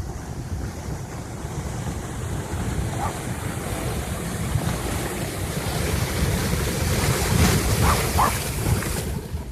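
Flash-flood water rushing down a desert wash, a steady churning noise with wind buffeting the microphone. It grows louder in the second half, and the high hiss drops off just before the end.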